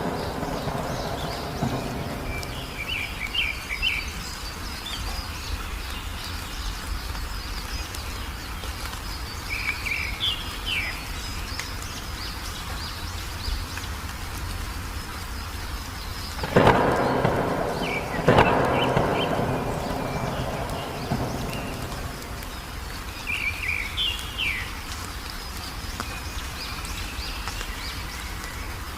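Steady rain with two sharp thunderclaps about two-thirds of the way through, each rumbling away over a few seconds. Short bird chirp phrases come in three times over the rain.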